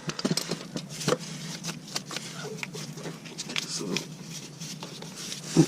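Scattered small clicks, taps and rustles of hands handling tractor parts and tools during a fuel filter change, with a faint steady low hum behind them.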